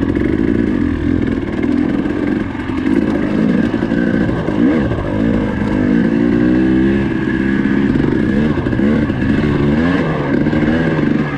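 Dirt bike engine running under way, its pitch rising and falling again and again as the throttle is worked.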